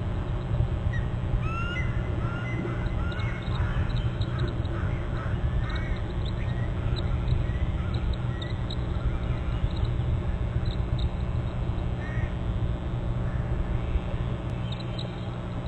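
Unidentified birds giving many short, overlapping chirping calls, thickest in the first half and thinning out later, over a steady low rumble.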